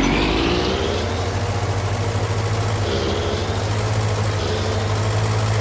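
John Deere garden tractor engine running steadily while mowing, with a brief dip and recovery in engine pitch just at the start.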